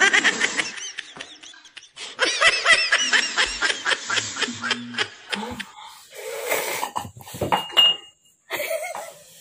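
A person laughing hard in several fits of rapid, high-pitched bursts, with a short squeal near the end.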